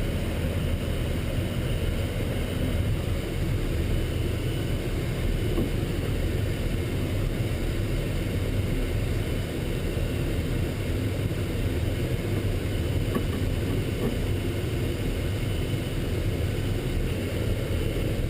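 Military truck driving in convoy: a steady low engine and road rumble heard from inside the vehicle.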